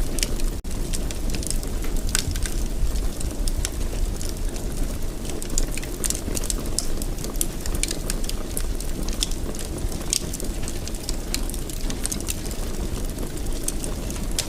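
Wood fire burning in a fireplace: a steady low rumble with frequent sharp crackles and pops. A split-second dropout cuts the sound about half a second in.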